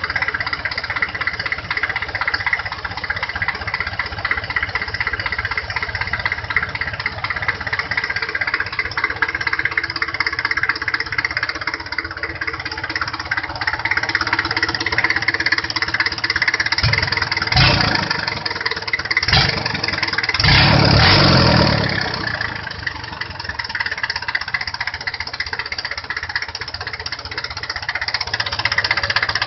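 Mitsubishi 4D30 four-cylinder diesel engine idling with a steady clatter. Around two-thirds of the way through it surges three times, two brief blips and then a longer one, before settling back to idle.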